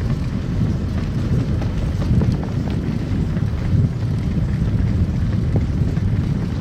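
Car driving along a snow-covered road: a steady low rumble of tyres and engine, with a few faint scattered ticks.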